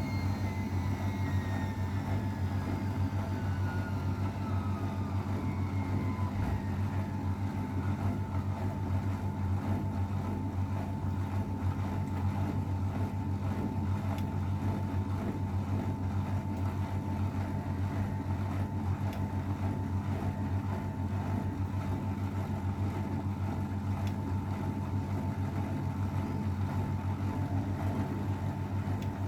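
AEG Öko-Lavamat 693 washing machine running steadily in its spin, its drum and motor giving a constant hum with a steady higher tone above it. A whine falls in pitch and fades over the first seven seconds or so.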